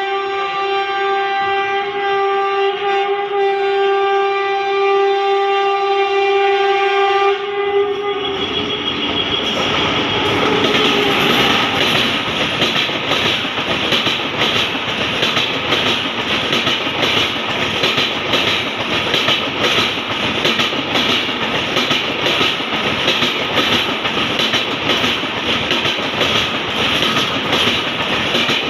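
An Indian Railways locomotive horn sounding one long steady note that stops about eight seconds in, followed by an express train rushing past with the rapid clickety-clack of coach wheels over rail joints.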